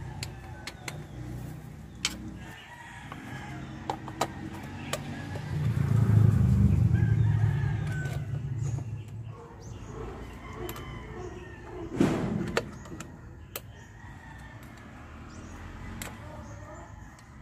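A rooster crowing in the background over scattered clicks and knocks of hand tools. A low rumble swells and fades about six to eight seconds in, and a sharper knock comes about twelve seconds in.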